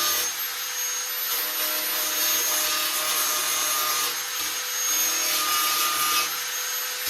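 Shop vac running steadily: a rushing hiss of air with a steady motor whine.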